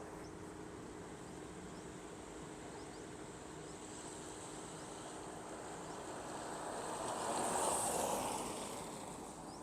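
A vehicle passes by, its sound swelling over a few seconds to a peak near the end and then fading, over a steady faint background hum.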